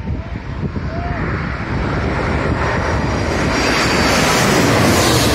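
Jet airliner's engines growing louder as the plane approaches, building to a loud rush with a faint high whine near the end, while wind buffets the microphone throughout.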